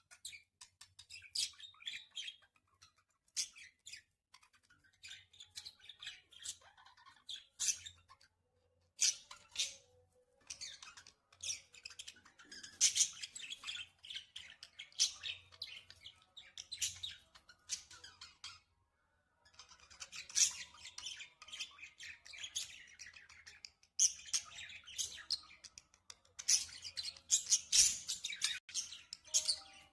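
Budgerigars calling in rapid, dense bursts of chirps and harsh squawks, which the owner takes for anger. The calls pause briefly twice and are busiest in the second half.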